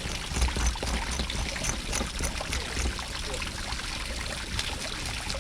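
Water running and splashing steadily, with scattered small clicks and knocks.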